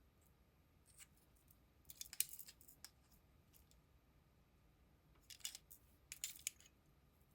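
Near silence broken by a few short clusters of light clicks and clatters from small hard objects being handled, the loudest about two seconds in and again near the end.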